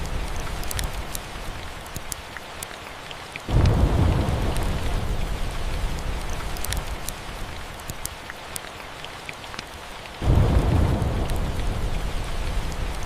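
Steady rain with two rolls of thunder, one about three and a half seconds in and one about ten seconds in, each breaking in suddenly and fading away over several seconds. Scattered sharp crackles from a fireplace sound over the rain.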